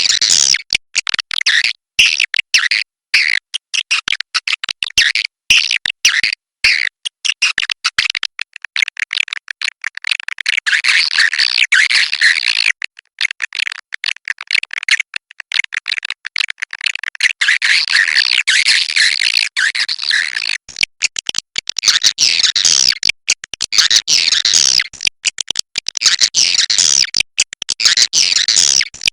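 Swiftlets twittering in a dense, continuous chorus of high chirps, broken again and again by short, abrupt silent gaps.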